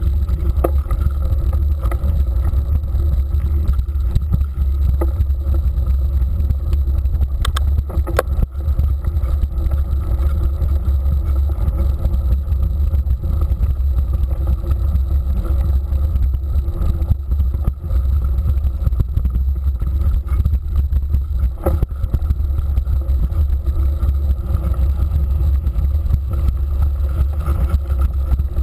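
Steady low rumble of riding noise, wind buffeting the microphone of a camera carried on a moving mountain bike, with a few sharp knocks.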